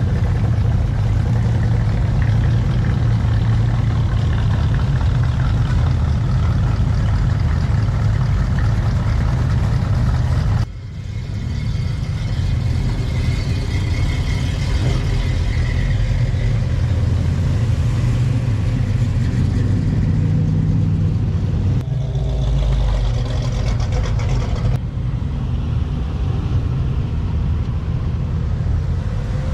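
Car engines running with a deep exhaust note, mostly idling with some light revving. The sound changes abruptly three times, like separate clips joined together.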